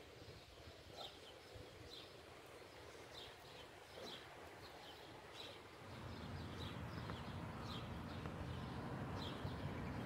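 Small birds chirping, short high chirps one or two a second. A low rumble comes in about six seconds in.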